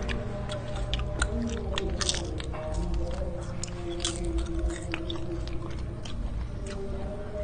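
Close-up chewing and crunching of crisp fried potato chips, with many sharp, irregular crunches.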